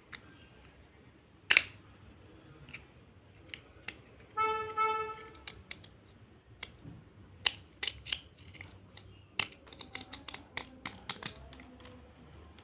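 Dry slate crunching and snapping in sharp, separate cracks, with one loud crack about a second and a half in and a quick run of crackles in the second half. A brief steady tone sounds near the middle.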